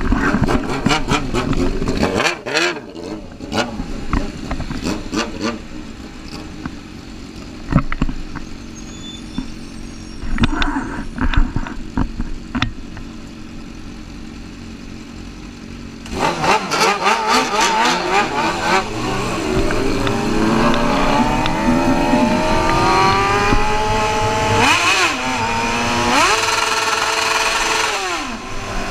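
Motorcycle engine revving in short irregular blips. From about 16 s in it runs loud and accelerating, its pitch climbing steadily and then dropping and rising again several times near the end.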